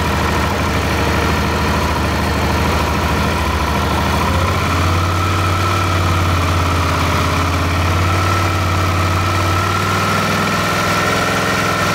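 Suzuki DL650 V-Strom's fuel-injected V-twin idling, its idle picking up about four to five seconds in as cleaner sprayed on a leaking intake manifold boot is drawn in and richens the mixture. The revs rising on the spray is the sign of an air leak at the manifold.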